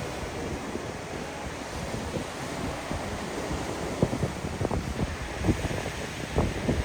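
Waves breaking on a Lake Huron sand beach, a steady wash of surf, with wind buffeting the microphone in irregular low thumps.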